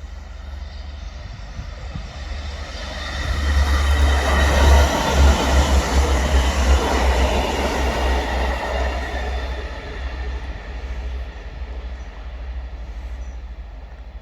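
A train passing by on the line, its wheels rumbling on the rails. The sound builds about three seconds in, is loudest for a few seconds, then fades away.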